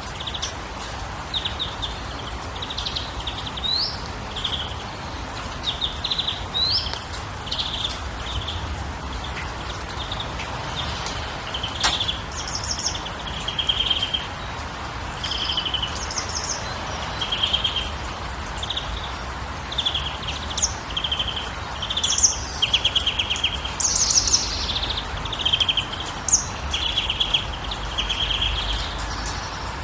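Several songbirds chirping and trilling in short repeated phrases, more densely in the second half, over a steady rushing background.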